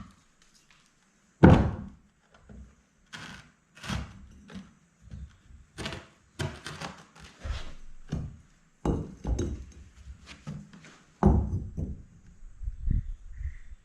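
A string of irregular knocks and thuds, the loudest a hard thunk about a second and a half in.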